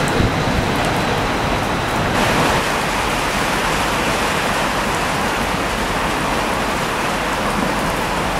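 Steady hiss of rain. A faint high whine stops abruptly about two seconds in, and the hiss carries on evenly after it.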